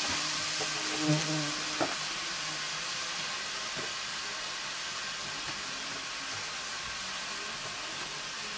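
Mushrooms frying in a wok over a wood fire, a steady sizzle, with a couple of light knocks of containers being handled about a second in.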